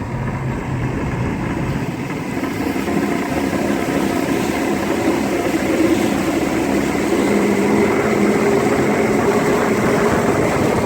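Bass boat's outboard motor pulling away: the engine note climbs in pitch and grows louder over the first several seconds as the boat speeds up, then runs steadily at speed.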